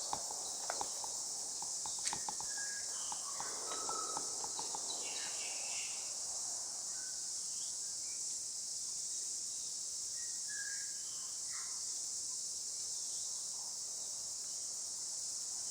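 Steady high-pitched chorus of insects in native forest, with a few short bird calls over it and a few clicks in the first couple of seconds.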